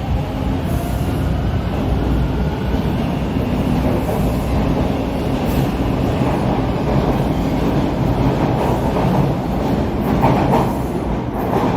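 TTC subway train running on the track, a steady rumble with wheel noise, a little louder about ten seconds in.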